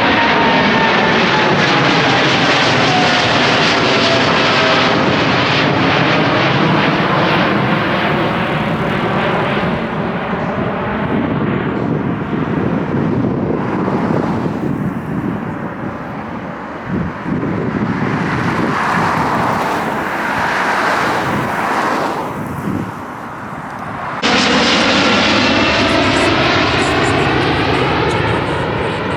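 Widebody jet airliner's engines climbing out low overhead after takeoff: a loud jet noise with a whine that falls in pitch as the aircraft passes, slowly fading. About 24 seconds in it cuts abruptly to another loud jet passing.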